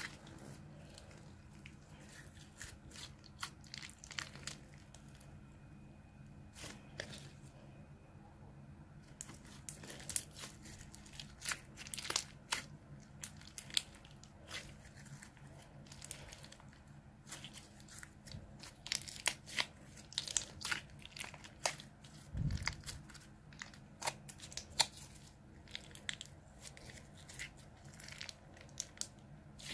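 Slime being squeezed and kneaded by hand, giving a stream of irregular small crackles and clicks. There is one low thump about three-quarters of the way through.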